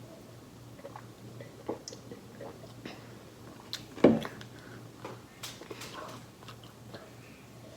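Close-up chewing and mouth sounds of someone eating sweets, with scattered small clicks and one louder sharp knock about four seconds in, over a faint steady low hum.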